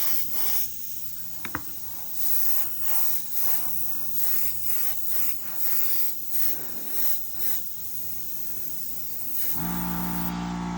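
Airbrush spraying paint in repeated short hisses that swell and fade about one to two times a second, with a single sharp click about a second and a half in. Near the end a steady, low hum starts abruptly.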